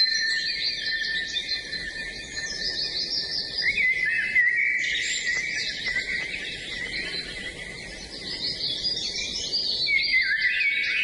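Many songbirds singing at once: a dense chorus of overlapping chirps and warbling phrases that never lets up.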